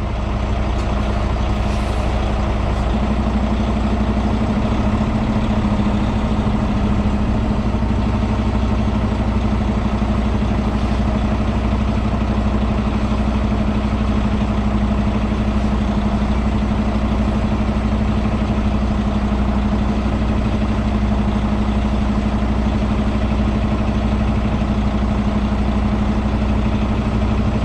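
Semi truck's diesel engine idling with a steady hum; the hum steps up slightly in pitch about three seconds in.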